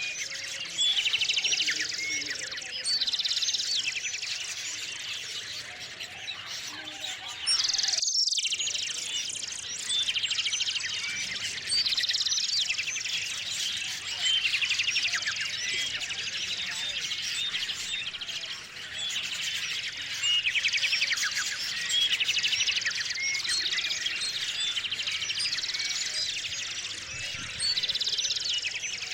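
A chorus of small songbirds chirping and singing, with rapid repeated trills and short calls from several birds overlapping.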